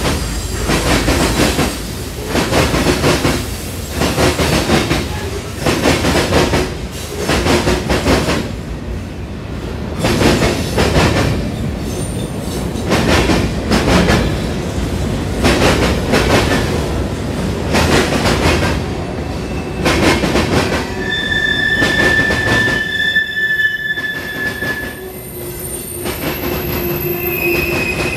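Freight cars of a CSX manifest train rolling past, with a steady rumble and a repeated clatter of wheels over rail joints. High, steady wheel squeals set in near the end.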